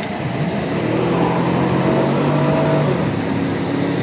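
Chevrolet Camaro engine heard from inside the cabin, revving up as the car accelerates out of a corner. It holds high revs, then eases off about three seconds in.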